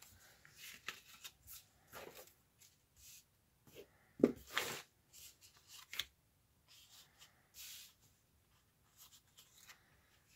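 Paper tags and journal pages being handled: scattered rustles and light taps, with a louder brief clatter about four seconds in.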